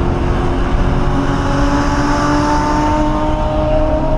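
1997 SVT Cobra Mustang's 4.6-litre DOHC V8 pulling under acceleration, its pitch rising slowly and steadily, heard from inside the cabin over road and wind noise.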